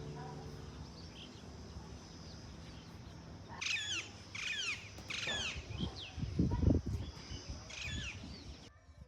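Birds calling outdoors: bursts of short, sharp calls, each falling in pitch, three in quick succession a few seconds in and one more near the end, over a steady high hiss. A low rumble, the loudest sound, comes about two-thirds of the way through.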